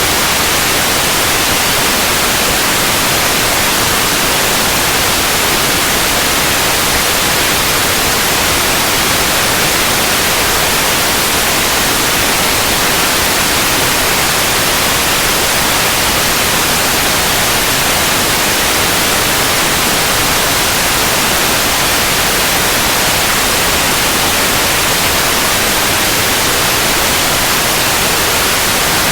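Synthetic white noise: a loud, steady, even hiss with no change or events, brightest in the high range.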